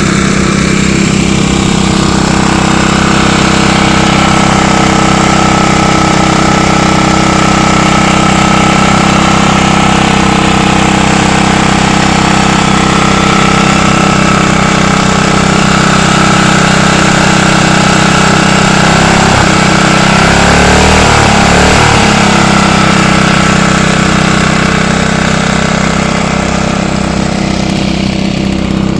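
Small petrol engine running steadily, its pitch wavering briefly about twenty seconds in.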